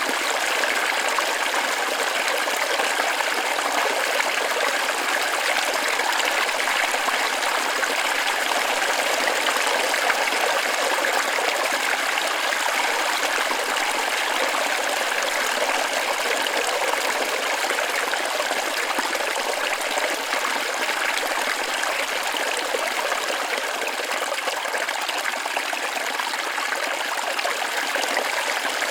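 Waterfall splashing steadily: an even, continuous rush of water with little deep rumble.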